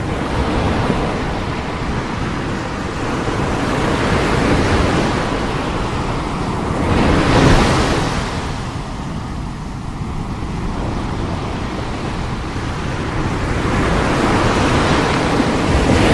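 Heavy sea surf: a continuous rush of breaking waves, with one wave crashing loudest about halfway through and another building near the end.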